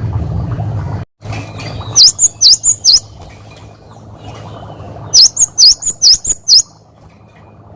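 Cinereous tit (gelatik batu) singing its 'wucit wucit' song: two runs of about five sharp, quickly repeated whistled notes, each run about a second long, the first about two seconds in and the second about five seconds in. A low hum runs underneath.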